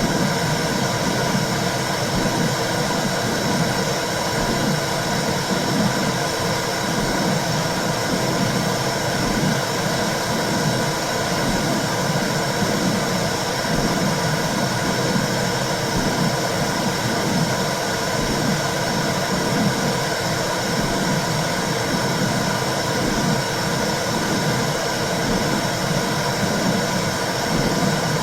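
Womb sound for soothing babies: a steady, loud whooshing hiss over a low rumble that pulses unevenly.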